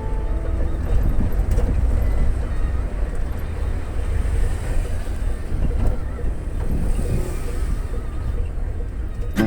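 Steady low road rumble of a vehicle travelling, with wind buffeting the microphone.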